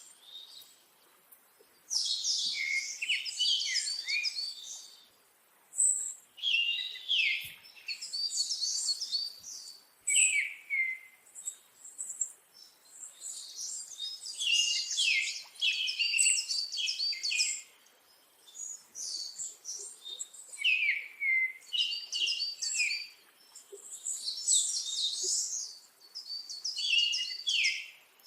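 A songbird singing a run of high, twittering phrases of two or three seconds each, separated by short pauses, with each phrase ending in a few lower, down-slurred notes.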